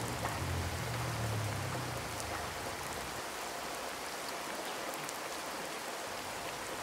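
Steady monsoon rain falling, an even hiss of many drops. A low hum underneath fades out about two seconds in.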